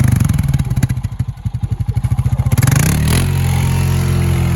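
Honda Rancher ATV engine revving hard under load, with a rapid throbbing beat. About three seconds in, it settles into a smoother, steady, slightly higher drone.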